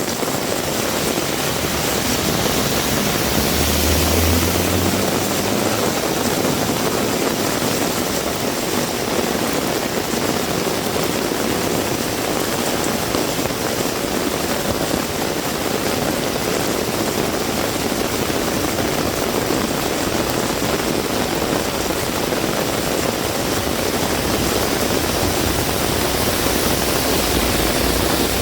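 Heavy rain falling steadily, a dense even hiss, with a brief low rumble about four seconds in.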